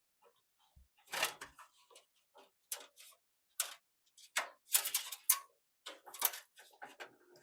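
A run of irregular clicks and light taps, some single and some in quick clusters, the busiest stretch in the second half.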